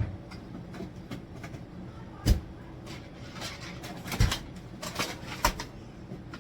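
About five separate knocks and clunks of household items being handled and set down, over a low steady hum.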